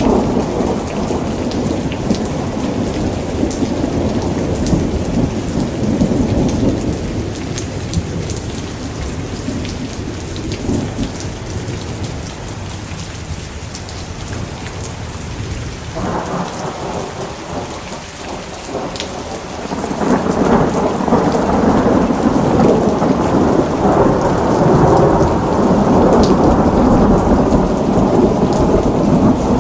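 Steady rain with rolling thunder. A long rumble fades away over the first several seconds, then a new rumble breaks in about halfway and swells louder toward the end.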